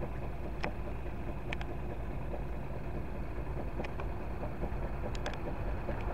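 Steady low rumble of engines idling, with a few short, sharp high ticks scattered through it.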